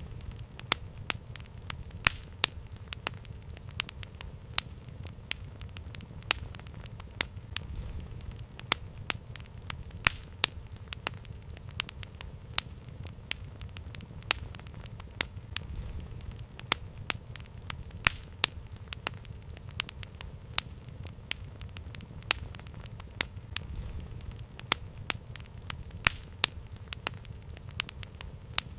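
Campfire crackling: burning wood gives irregular sharp pops and snaps, a few a second, over a steady low rumble of the flames.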